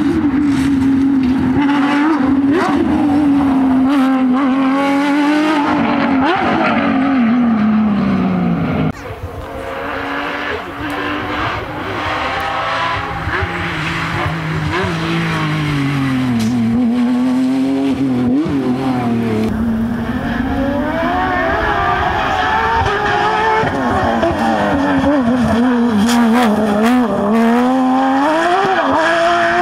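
Porsche 911 rally cars' flat-six engines at full throttle, the engine note climbing and dropping again and again through gear changes and lifts, with some tyre squeal. The sound cuts abruptly to another pass about nine seconds in and again near twenty seconds.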